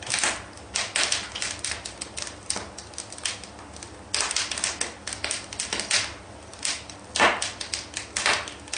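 A run of quick, irregular sharp clicks and taps, several a second in uneven clusters, much like a typewriter being typed on.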